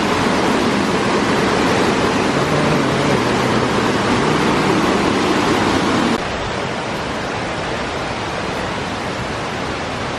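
Steady rushing of a waterfall or creek. It drops abruptly to a lower, steady rush about six seconds in.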